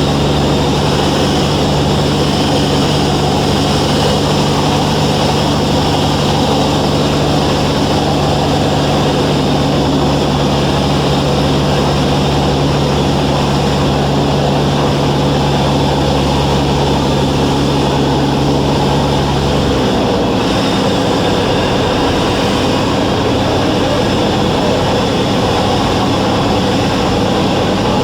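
Steady in-flight drone of a Velocity S-FG's 180 hp piston engine and pusher propeller, heard inside the cabin. About twenty seconds in, its deepest hum drops out suddenly and the drone carries on without it.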